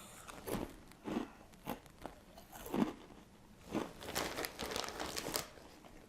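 A person biting into and chewing Cheetos Crunchy puffed corn snacks close to the microphone: a string of dry, sharp crunches, a few spaced out at first, then coming thick and fast in the second half.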